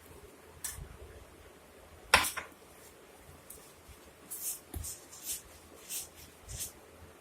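Hands kneading besan dough in a bowl: one sharp knock about two seconds in, then a run of short, quick sounds of the dough being pressed and worked, with a few soft thumps.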